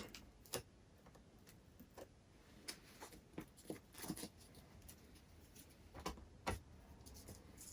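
Near silence with a few faint, scattered clicks and taps as the broken EPP foam wing is handled.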